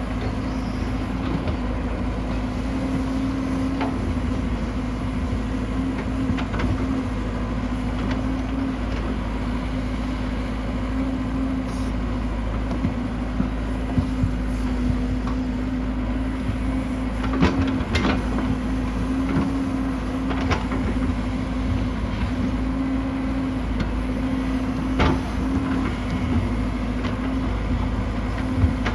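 Excavator's diesel engine running steadily, with a few sharp knocks heard over it: a cluster a little past the middle and one more near the end.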